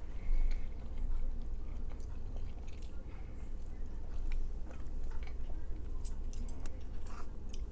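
A person chewing and eating takeout Chinese food, with scattered small wet mouth clicks.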